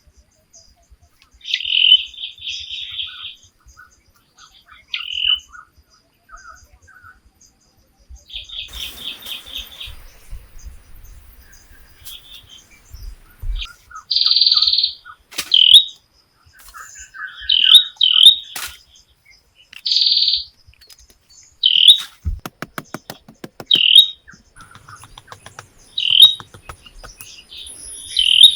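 Birds chirping in short repeated bursts of rapid high chirps, with gaps of a second or two between them.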